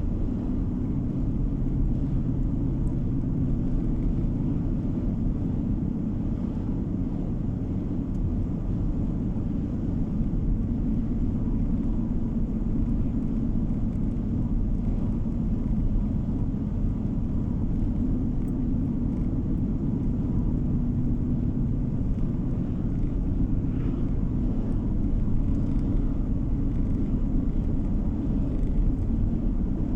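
Car driving steadily along a road: an even, low rumble of tyres and engine heard from inside the car.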